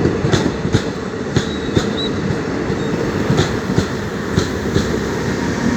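Train running along the track: a steady rumble with wheels clicking over rail joints in pairs.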